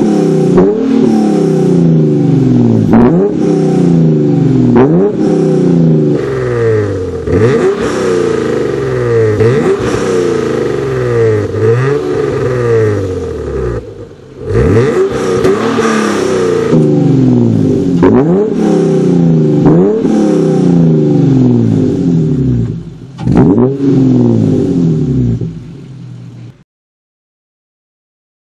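Hyundai Genesis Coupe 3.8 V6 through a variable valved aftermarket exhaust, revved over and over: quick rises in engine pitch, each falling back again, about one every one to two seconds. The sound cuts off suddenly near the end.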